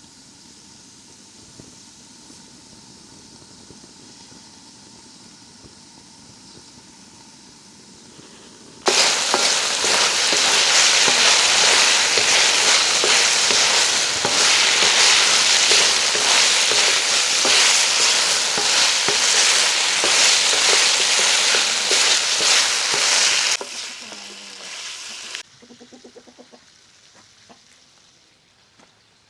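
Food frying in hot fat in a pan, starting suddenly about nine seconds in with a loud, dense sizzle. The sizzle cuts off abruptly a little before the end, then dies away after a short quieter tail.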